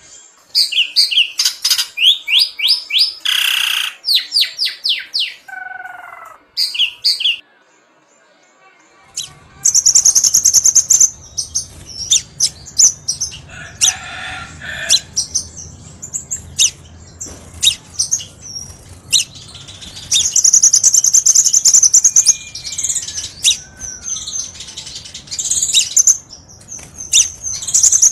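Crimson sunbird (kolibri sepah raja) calling: fast series of high, sharp chirps and trills with short pauses. About nine seconds in, a low background hum comes in under the calls.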